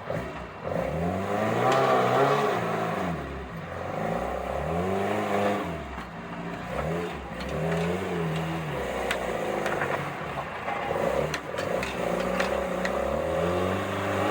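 Off-road vehicle engine revving in repeated surges as it climbs over rocks, the pitch rising and falling about five times, with a few sharp knocks and scrapes.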